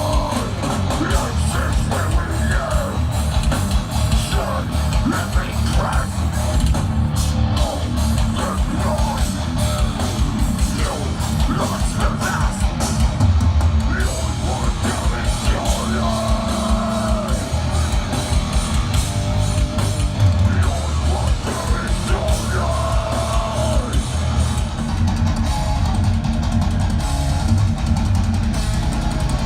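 A live heavy rock band playing loud, with distorted electric guitars, bass and a full drum kit.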